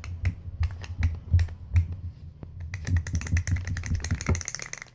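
Brushless RC car motor's shaft clicking and knocking as it is rocked side to side by hand, an irregular run of small clicks with a rougher grating stretch past the middle: play from a failed motor bearing.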